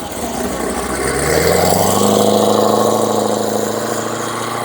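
Car engine accelerating: its note climbs in pitch over the first two seconds, is loudest around two seconds in, then holds steady and eases off slightly as the car pulls away.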